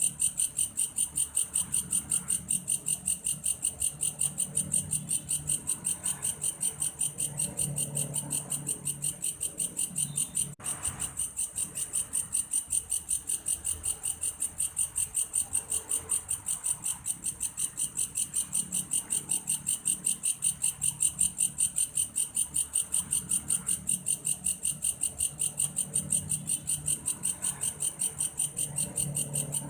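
Singing insect, the 'belalang kayu' (a grasshopper sold as sounding like a cricket), chirping in a high, fast, perfectly steady pulse of about four to five chirps a second.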